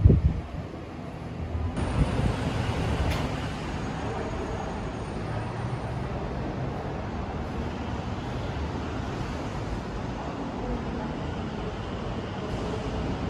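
Steady city traffic noise: a continuous rumble of cars and buses from the streets, with a brief loud bump right at the start.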